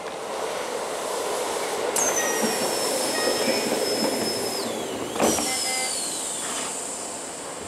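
Keisei electric commuter train pulling into a station, its running noise carrying a high-pitched squeal that slowly falls in pitch and breaks off. A sharp knock comes about five seconds in, and then the squeal sets in again, falling further as the train slows.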